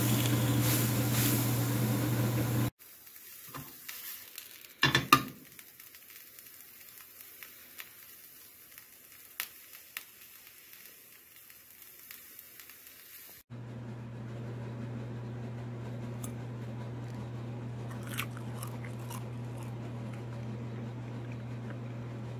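Crickets sizzling as they fry in a small frying pan. After a cut there are a few sharp knocks, then a steady low hum with a few light clicks, typical of a metal fork on a ceramic bowl.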